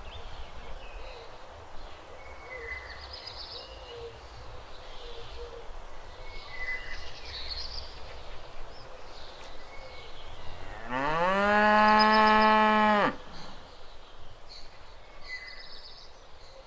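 A cow moos once, a long call that rises in pitch and then holds steady for about two seconds before cutting off, a little past the middle.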